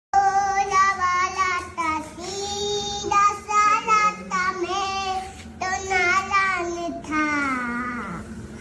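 A high, child-like voice singing a melody in held notes, sliding down in a long falling glide near the end.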